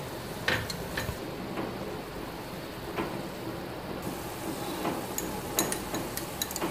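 Chopped tomatoes and onions frying in hot oil in an aluminium pot, a steady sizzle, with a few sharp clicks of the spatula against the pot.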